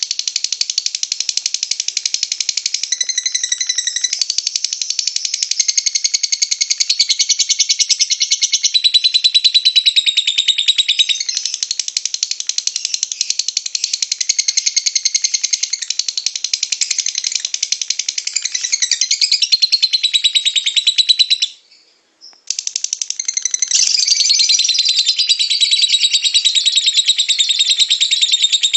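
Lovebird singing in a long, rapid, chattering trill (the 'ngekek' song), breaking off briefly about 21 seconds in and then resuming.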